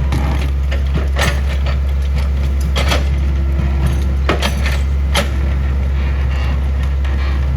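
Excavator diesel engine running steadily with a deep drone, with a few sharp knocks and clanks scattered through.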